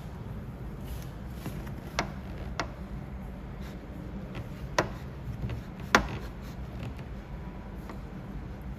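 Paintless dent repair tools working a car door panel: four sharp clicks or taps, the loudest about six seconds in, over a steady low hum.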